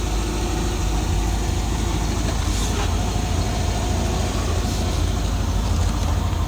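1980 Corvette's rebuilt 5.7 L 350 small-block V8, upgraded toward L82 specs, idling steadily with a deep, even low hum.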